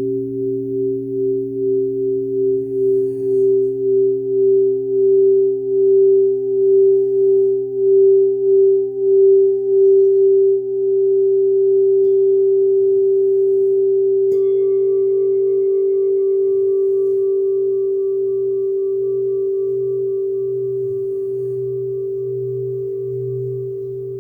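Crystal singing bowls ringing in several sustained, overlapping tones, with a slow wavering pulse that swells over the first ten seconds and then settles into a steady, gradually fading drone. About fourteen seconds in, a light strike adds a higher ringing tone.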